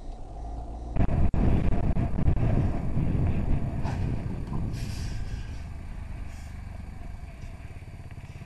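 Vehicle driving noise as heard from inside a car: a low rumble of engine and tyres that gets much louder suddenly about a second in, then slowly fades.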